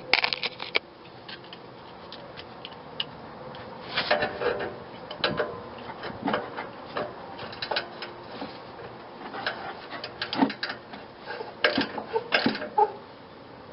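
Irregular metallic clicks, taps and scrapes of hand tools working on a car's old rusted exhaust muffler and its hanger strap.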